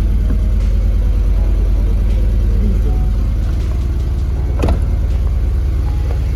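Car engine idling steadily, with a single sharp click about four and a half seconds in.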